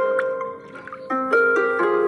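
Background instrumental music of plucked string notes, harp-like, that ring and die away. A new phrase of notes starts about a second in.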